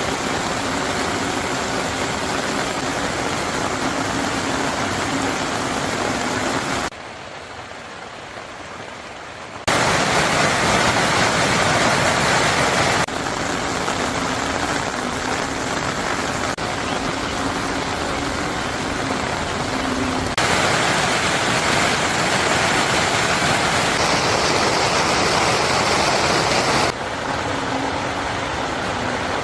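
Steady rushing of a rain-swollen mountain stream, its level jumping up or down at several abrupt cuts.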